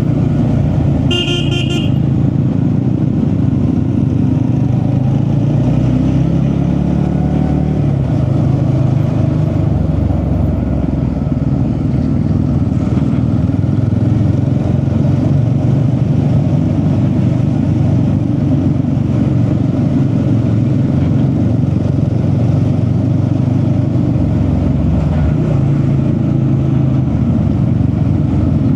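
Steady engine and road noise of a vehicle under way, the engine pitch drifting slowly with speed. A short horn-like beep sounds once, about a second in.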